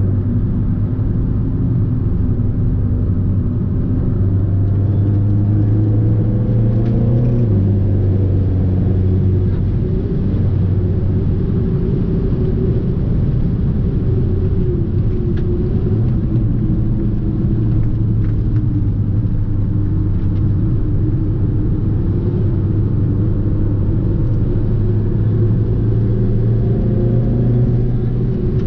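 Fiat 500 Abarth's turbocharged 1.4-litre four-cylinder engine and exhaust under way on the road, a steady engine note with a drop in pitch about seven seconds in, then easing up and down.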